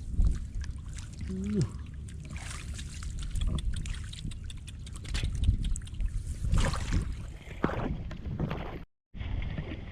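Water sloshing and splashing in a flooded rice field, over a steady low rumble of wind on the microphone. There is a short vocal sound about a second and a half in.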